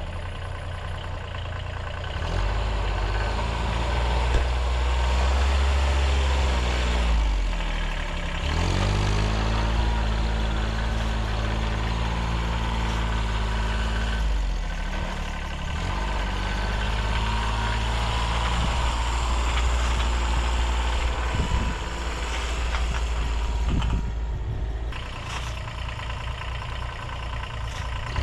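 Vehicle engine running steadily, its pitch dipping and climbing again twice, about eight seconds in and again around fifteen seconds in, as the engine speed changes.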